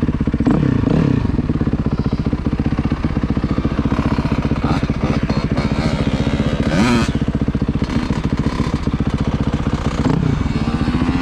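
Dirt bike engine idling with a fast, even pulse, with short revs about half a second in, around seven seconds in and around ten seconds in.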